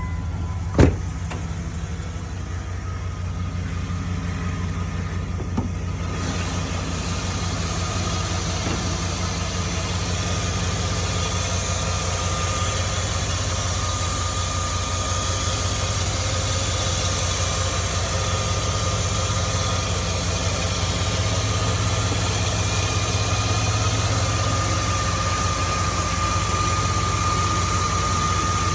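1999 Dodge Ram 1500 pickup's V8 engine idling steadily and evenly, running smoothly. There is one sharp knock about a second in, and a steady hiss comes up about six seconds in.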